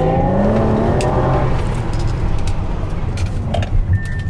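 A car engine revving up, its pitch rising for about the first second and a half, then giving way to a steady low driving rumble. A brief high steady tone comes near the end.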